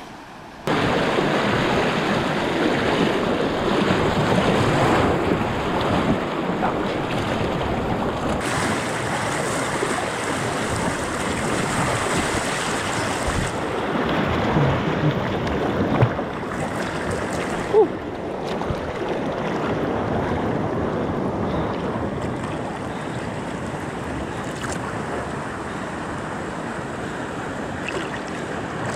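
Loud, steady rush of falling or fast-flowing water, cutting in suddenly about a second in, with a couple of brief knocks later on.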